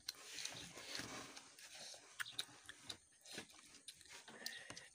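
Faint chewing of a child eating rice with his fingers from an enamel bowl, with irregular small clicks.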